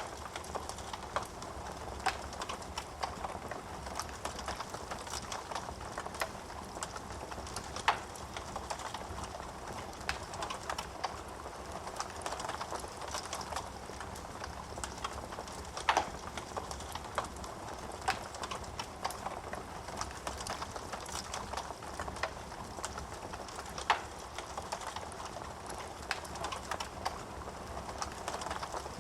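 Wood fire crackling in a fireplace: a steady soft hiss of burning with many small snaps and a few sharp, louder pops, about every eight seconds.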